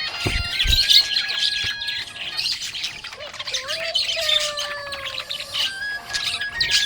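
Budgerigars chirping and chattering in a dense, fast stream of high chirps, with a couple of low thumps about half a second in.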